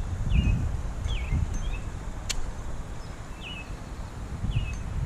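Outdoor ambience: wind gusting over the microphone in low rumbles, with a songbird giving short repeated chirps about once a second. A single sharp click a little over two seconds in.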